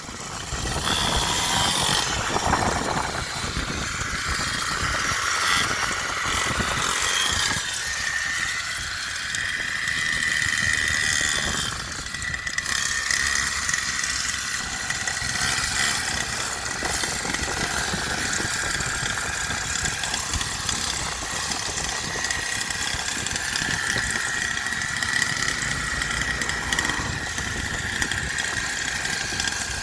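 Small 49cc dirt bike engine running at steady revs with a high buzzing note, picking up less than a second in and holding through, over a rough low rumble.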